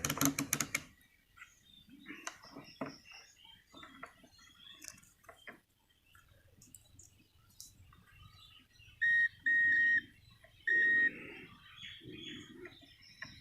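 Digital multimeter in continuity (beep) mode giving three short, steady high-pitched beeps about two-thirds in, with faint clicks of the test probes touching the circuit board before them. The beeps signal continuity while the board is checked for a shorted component.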